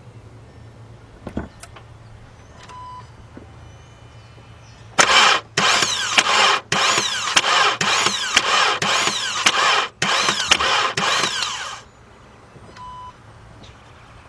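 2014 Volkswagen Beetle 2.0 turbo engine cranked on the starter in several bursts for about seven seconds, with a wavering whine, and not catching: a crank-no-start. A short beep sounds once before the cranking and once after.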